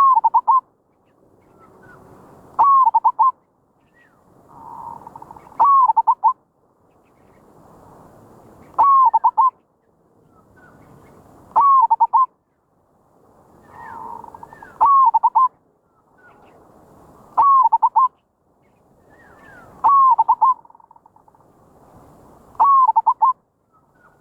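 Zebra dove (merbok) cooing: a short phrase of quick rolling coos repeated about every three seconds, nine times, each phrase preceded by a soft rising murmur.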